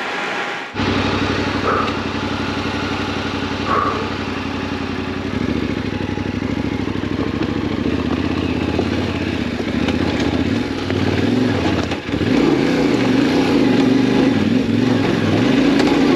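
Yamaha Ténéré 700's parallel-twin engine running while the bike is ridden. Its note starts suddenly about a second in and holds steady, then changes twice. From about halfway on it rises and falls with the throttle, and it is loudest near the end.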